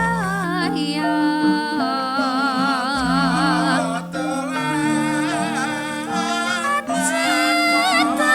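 Javanese gamelan ensemble playing with a sung vocal line that wavers with wide vibrato over steady, held metallic tones. Deep low notes come in at the start and again about three seconds in.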